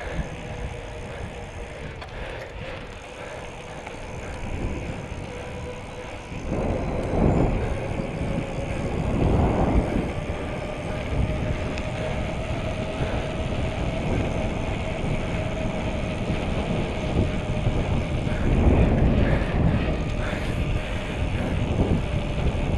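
Bicycle riding noise: wind rumbling on the microphone over tyre and road noise, with a faint steady whine throughout. It swells louder twice, about a third of the way in and again near the end.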